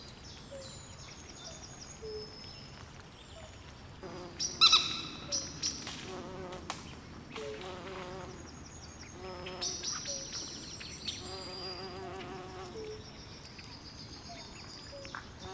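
Swamp chorus of frogs and insects calling together: repeated high chirps and trills over lower, pitched croaking notes, with a louder run of sharp calls about four and a half seconds in.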